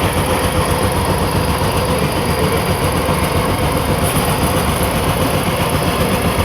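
A motor vehicle's engine running steadily, with a fast low flutter.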